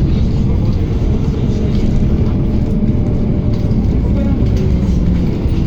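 A MAZ-107.468 city bus driving, heard from inside the passenger cabin: a steady low drone of engine and road noise.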